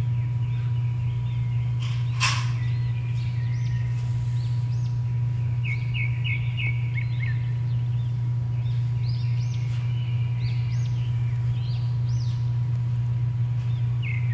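Small birds chirping in short, quick notes, thickest in the middle stretch, over a steady low hum. There is one brief sharp sound about two seconds in.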